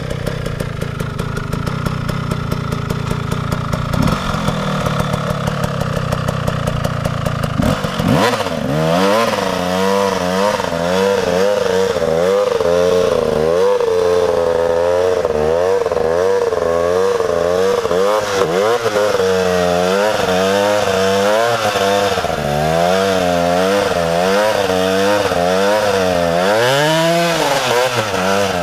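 Two-stroke KTM 300 dirt bike engine running at a steady, fast-ticking idle. From about eight seconds in it is revved up and down over and over, its pitch rising and falling about once a second.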